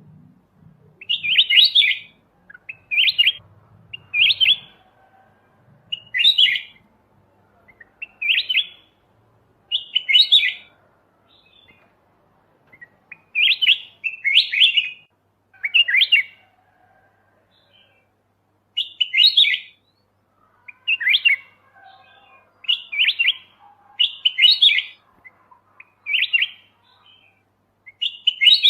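Kutilang emas bulbul singing short, bright, whistled phrases over and over, one every second or two.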